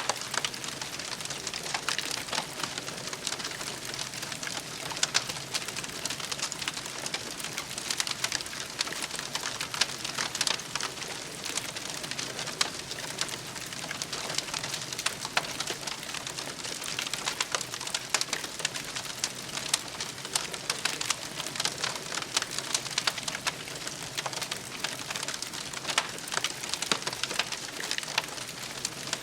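Campfire crackling steadily: a dense run of small snaps with frequent louder pops.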